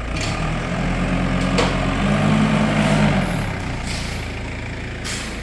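A heavy vehicle's engine running, its note swelling just after the start and dropping back after about three seconds, with a single sharp metallic click in between.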